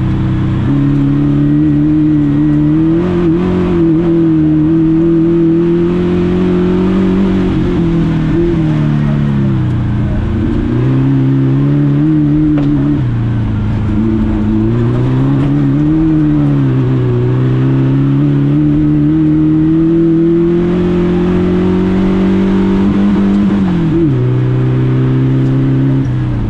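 Volkswagen Beetle rally car's engine running hard under acceleration, heard from inside the cabin. The revs fall away and climb again several times, about four times, as the car works along the course.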